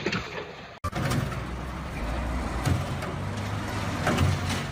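A heavy vehicle's engine running with a steady low rumble, broken by a few sharp knocks. The sound changes abruptly about a second in.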